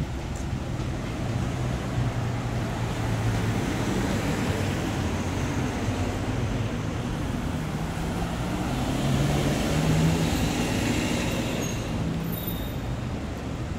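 City street traffic: vehicle engines running with tyre and road noise, swelling as a vehicle passes close about ten seconds in.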